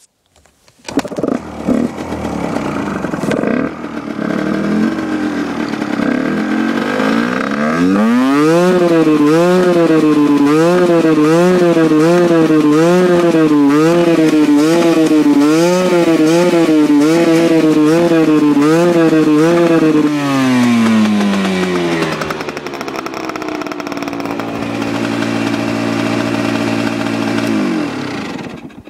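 Husqvarna WRE 125 two-stroke dirt bike engine running unevenly, then revved up and held high for about twelve seconds, its pitch surging up and down about once a second instead of holding steady. It then drops back to idle and cuts off near the end. This is the stutter of an engine that won't run cleanly at high revs since an overhaul, which the owner wonders may be the exhaust power valve.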